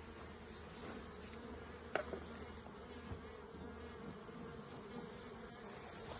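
Honeybees buzzing steadily at an opened hive, a wavering hum of many wings. A single sharp click about two seconds in.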